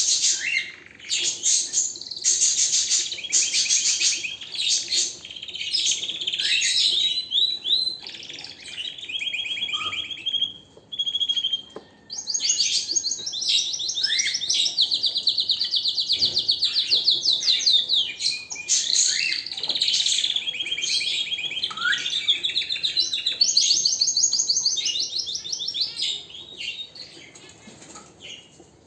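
Domestic canary singing a long song of fast trills and rolls, the runs of rapid repeated notes strung together with short gliding notes, fading out near the end.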